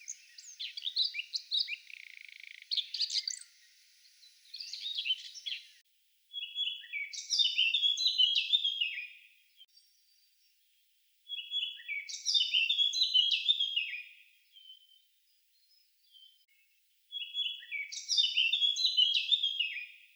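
Songbird singing: a run of mixed high chirps, then the same roughly three-second song phrase, stepping down in pitch, repeated three times about five seconds apart.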